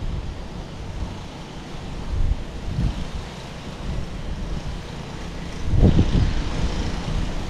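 Wind buffeting the camera microphone: an uneven low rumble, with a stronger gust about six seconds in.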